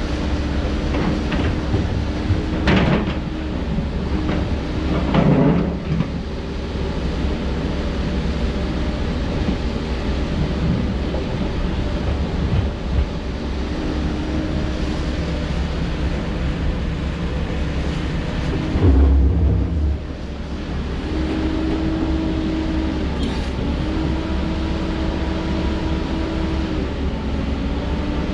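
Heavy diesel construction machinery running steadily, with a pitched whine that starts, stops and shifts in pitch. Sharp knocks come about 3 and 5 seconds in, and a heavy thump comes about two-thirds of the way through.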